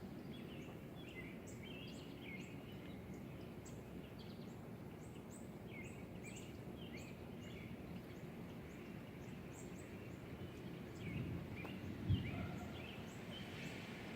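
Small birds chirping over and over above a steady low background rumble, with a single low thump about twelve seconds in.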